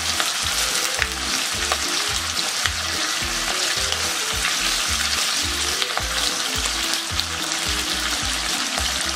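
Chopped chicken skin frying in a pan: a steady sizzle with scattered small pops as fat and water cook out of the skin. Quiet background music with a bass line plays underneath.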